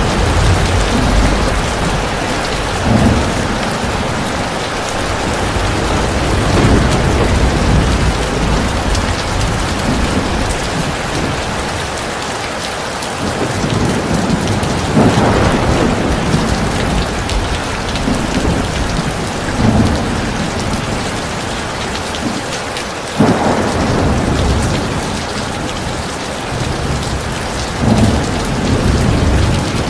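Heavy rain pouring steadily, with thunder rumbling low several times, including sharper peals about halfway through and near the last third.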